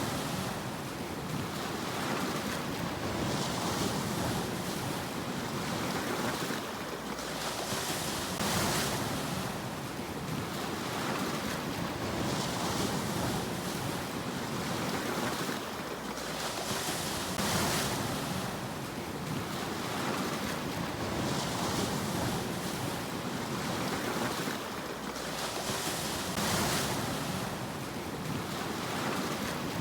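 Sea waves breaking and washing on the shore. The surf swells into a hiss every four to five seconds over a steady wash.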